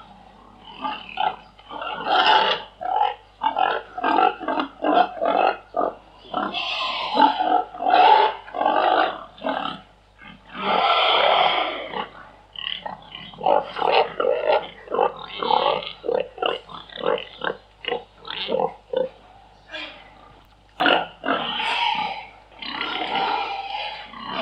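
Domestic pigs grunting in quick runs of short grunts, broken by several longer squeals; the longest comes about eleven seconds in.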